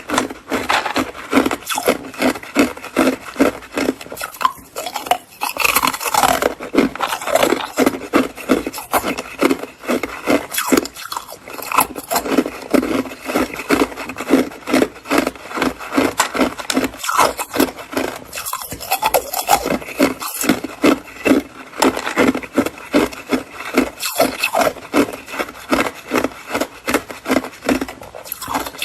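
Hard white ice being bitten and chewed close to the microphone: a steady run of sharp crunches, several a second.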